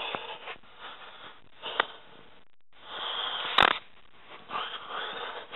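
Handling noise from an old kerosene heater being worked on by hand: three stretches of scraping and rustling with light clicks, and one sharp click about three and a half seconds in.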